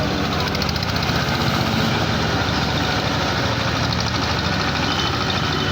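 A heavy vehicle engine running steadily at an even, low pitch.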